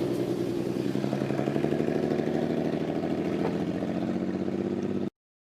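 Car engine running steadily with a fast, even pulse. The sound cuts off abruptly about five seconds in.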